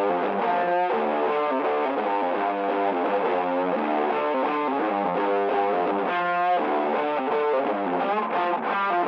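Background music: a distorted electric guitar playing a quick melodic riff at a steady level.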